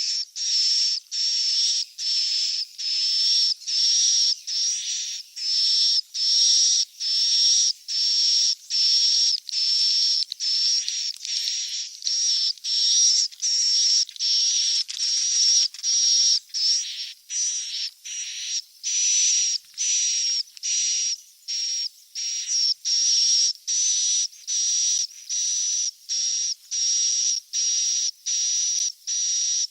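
Swiftlet chick calls: a fast, even series of short, high, rasping chirps, about one and a half to two a second, repeated without a break. This is a swiftlet-house lure track, played to draw swiftlets in to roost.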